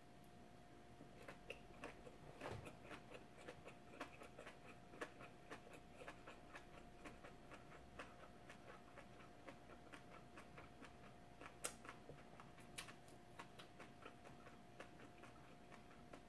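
Very quiet chewing of a mouthful of gimbap: faint, irregular soft clicks and mouth sounds over a faint steady electrical hum.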